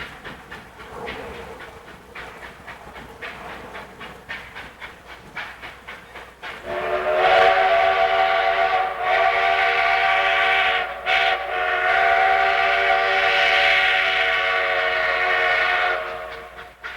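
Sierra Railway steam locomotive working hard up a steep grade, its exhaust beating in a steady rhythm. About seven seconds in, its steam whistle sounds a long, loud chord. The chord dips briefly twice and cuts off near the end while the exhaust beats carry on.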